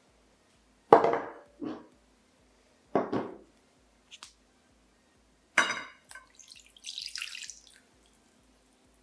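Kitchenware knocking and clinking in several separate strikes, the one near 6 s ringing briefly, then about a second and a half of water splashing or pouring.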